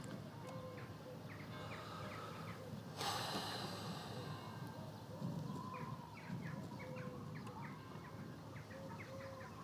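Outdoor ambience of small birds chirping repeatedly in short calls over a low steady background rumble, with a brief rush of noise about three seconds in.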